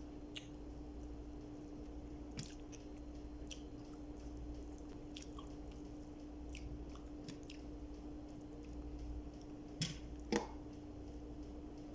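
A person chewing food close to the microphone, with scattered wet mouth clicks and smacks and two sharper clicks a little before the end, over a steady low hum.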